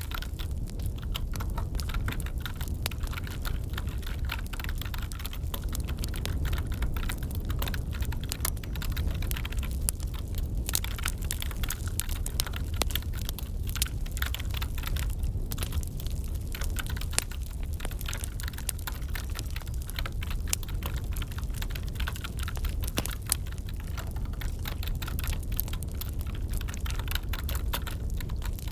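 Computer keyboard typing, a steady patter of key clicks, over a crackling wood fire with a low, even rumble.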